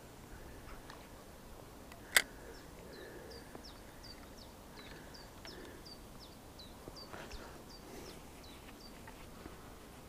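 A small bird repeats a short, high, falling note about twice a second. A single sharp click about two seconds in is the loudest sound.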